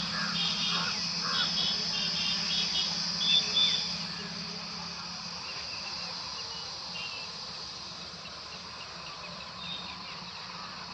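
Birds chirping in quick repeated bursts for the first few seconds, then only occasional calls, over a steady high insect buzz and a low steady hum.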